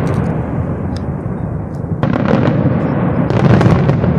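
Fireworks display: a continuous rumble of shell bursts with sharp bangs and crackles through it, growing heavier and louder about halfway through.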